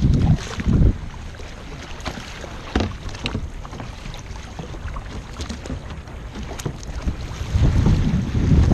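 Wind buffeting the microphone in gusts over the wash of water around a kayak underway, with a few light knocks about three seconds in.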